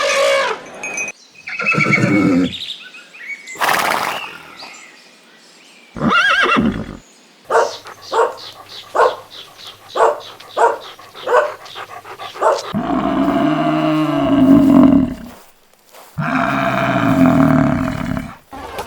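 Horses neighing: a string of separate calls, including a run of about ten short, evenly spaced pulses in the middle and two long, low calls near the end.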